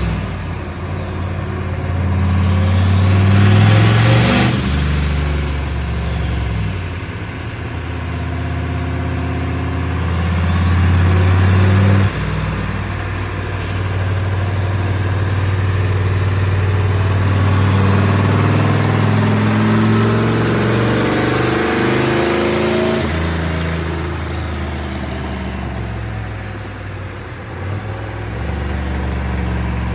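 Turbocharged OBS Ford pickup engine running and being revved, with a high whine that climbs in pitch a few times, then settling back to a steadier run.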